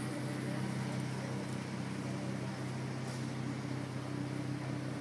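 2011 Ford Mustang's engine idling steadily, an even low hum.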